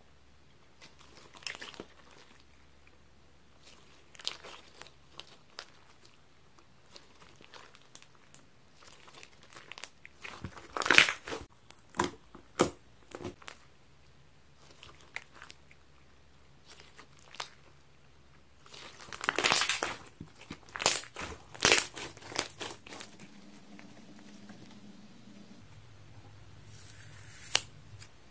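Hands squeezing and crumpling high-elasticity sponge, making crinkly, crunchy crackles in scattered bouts. The loudest runs come about a third of the way in and again about two-thirds in.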